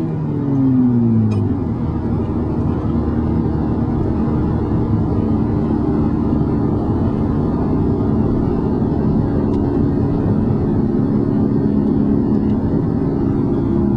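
VW Mk5 GTI's turbocharged 2.0-litre four-cylinder breathing through a 3-inch turbo-back exhaust: the revs fall off over the first second and a half, then the engine holds a steady note before starting to climb again at the very end.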